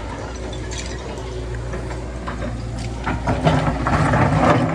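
Heavy construction machine's engine running steadily, with metallic rattling and clanking that grows louder about three seconds in.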